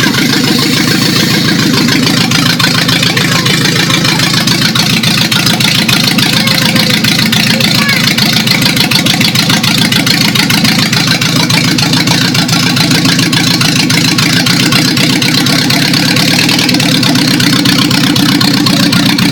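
Mazda 626 engine running steadily at idle, with a rapid even pulse.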